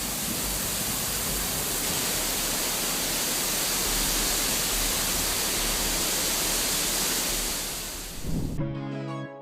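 Steady, even rushing noise with no distinct events, which cuts off suddenly near the end as music with sustained notes starts.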